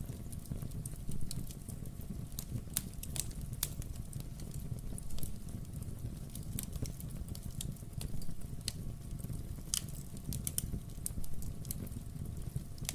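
Wood fire crackling in a fireplace: a steady low rumble of burning logs with many small, irregular pops and snaps.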